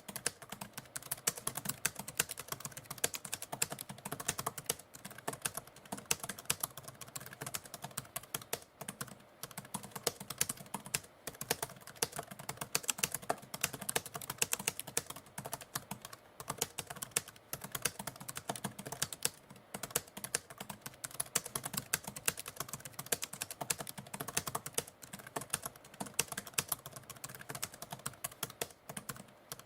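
Typewriter keys clacking in a rapid, continuous stream of typing, with a few short pauses.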